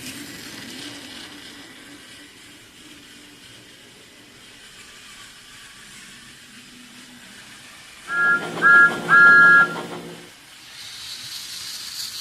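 Steam locomotive whistle sounding three blasts, two short and one longer, about eight seconds in, followed by a hiss of steam. Before it there is a faint low hum with hiss.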